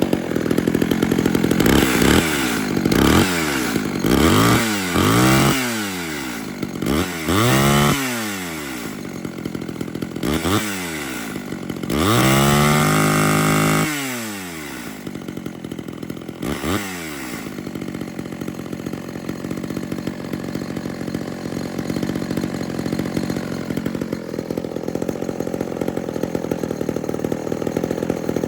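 Homelite Big Red Super XL two-stroke chainsaw running and being revved in a string of short throttle blips, one held high for about two seconds near the middle, then dropping back to a steady idle for the last ten seconds or so.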